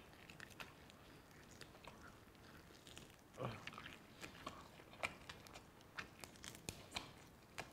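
Faint chewing and biting of roast duck meat: scattered small mouth clicks and smacks, with a slightly louder one about three and a half seconds in.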